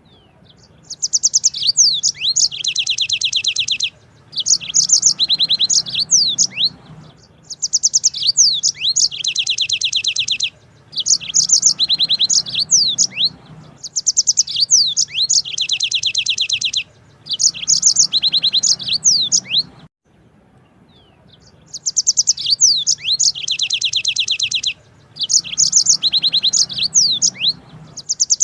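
Yellow-fronted canary (Mozambique singer) singing long song phrases of rapid trills and quick sweeping notes, each a few seconds long, with short pauses between them. The same phrases recur, and a faint low hum lies underneath.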